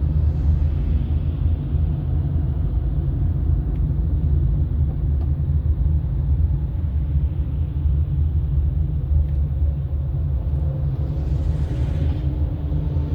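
Steady low rumble of a car driving: road and wind noise. A brief rush swells and fades about eleven seconds in.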